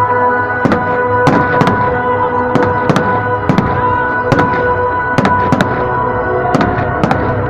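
Fireworks display: aerial shells bursting in an irregular string of sharp bangs, about one or two a second, over loud music with long held notes.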